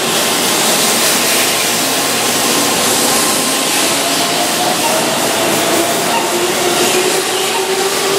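Keihan seven-car electric train moving along a station platform and gathering speed, its motors giving a whine that rises slowly in pitch over the steady rush of wheels on rail.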